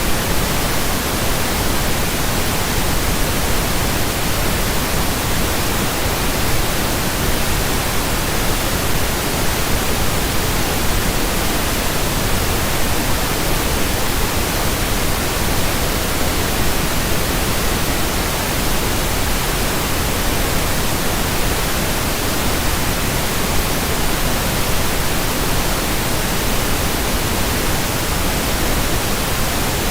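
Steady, unbroken pink noise: an even hiss spread across all pitches, with no change in level.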